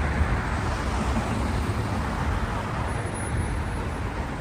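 Steady street traffic noise: an even low rumble with a hiss above it, without distinct events.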